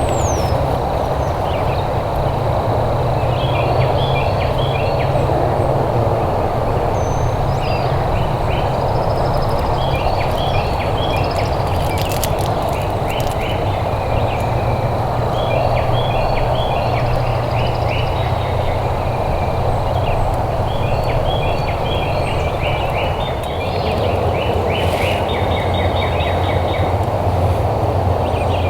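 A steady low rumble of outdoor background noise, with small birds chirping in short repeated phrases over it throughout.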